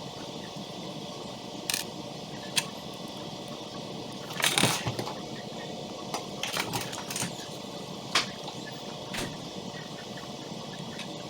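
Scattered sharp clicks and short clatters of plastic building bricks being handled and snapped together, the busiest bit about halfway through, over a steady background hum.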